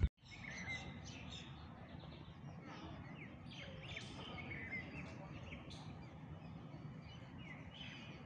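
Several birds chirping, with many short, quick calls scattered throughout, over a faint, steady outdoor background noise.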